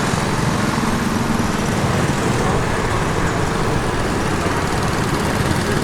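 Small single-cylinder CycleKart engines running steadily, a loud continuous chugging.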